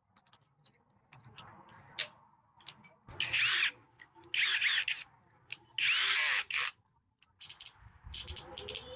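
Brushless cordless drill run in three short trigger pulls, its motor whining up and winding down each time, with scattered sharp clicks before and after.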